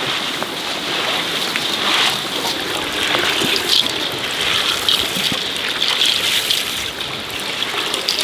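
Steady rain and running water: a continuous watery hiss with scattered small drips and splashes.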